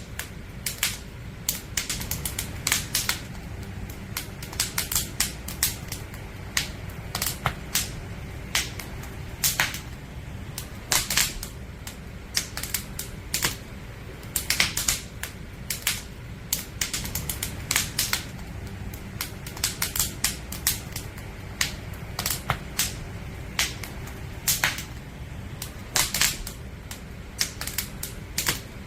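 Wood fire burning: irregular sharp crackles and pops from the burning logs, sometimes several in quick succession, over a low steady rumble of the flames.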